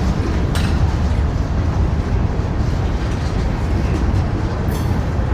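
A train running past in a steady low rumble, with a couple of short sharp clicks about half a second in and again near the end.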